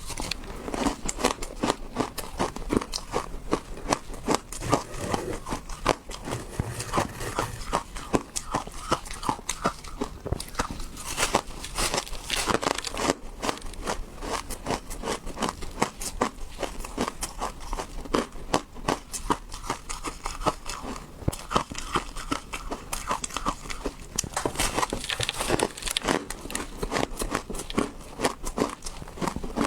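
Ice being bitten and chewed, a dense run of sharp crunching cracks that goes on without a break.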